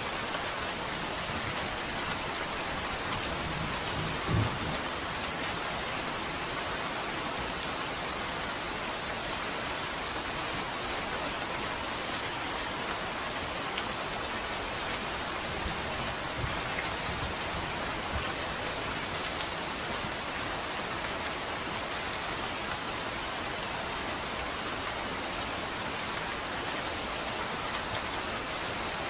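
Steady rain falling and pattering on a surface, an even dense hiss. About four seconds in a brief low thump rises above it.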